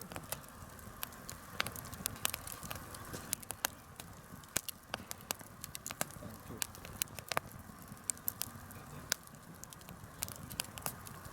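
Wood fire crackling, with many irregular sharp pops and snaps over a low steady hiss.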